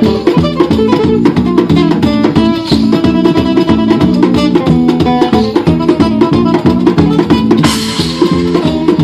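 Live world-music band playing an instrumental passage: rapid plucked acoustic guitar notes over percussion, with a brief crash near the end.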